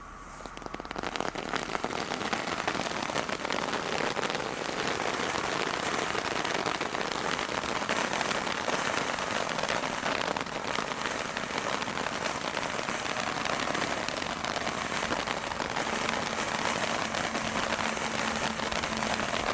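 Firework from a Brothers Pyrotechnics Bonfire Party selection box crackling fast and continuously, a dense rain-like crackle that starts about half a second in and holds steady without separate bangs.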